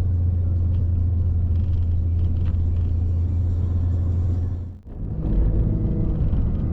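Vehicle driving, its engine and road noise making a steady low drone. The sound drops out briefly just under five seconds in and comes back as a similar low rumble.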